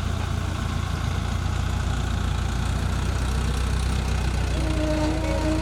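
Heavy diesel engine running steadily at low revs, a deep even hum.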